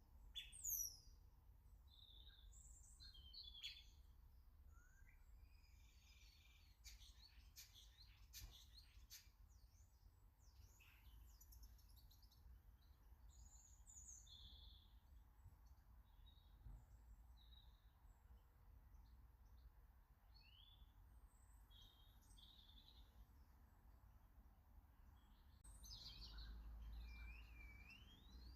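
Faint garden birdsong: many small birds chirping and calling on and off, with a louder downward-sliding call about a second in and a wavering whistle near the end over a low rumble.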